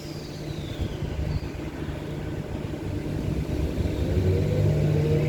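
Four-car electric multiple-unit passenger train pulling out of the station, its low running rumble growing steadily louder as it gathers speed. A faint high tone falls in pitch in the first second or so.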